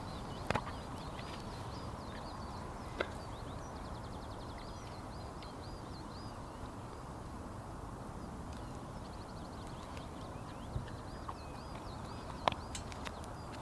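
A small songbird singing repeated short phrases and trills over a steady rushing background, with a few light knocks.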